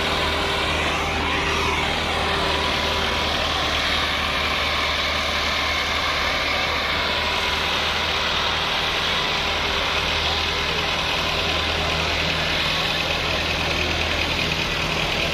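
Millat tractor's diesel engine running steadily.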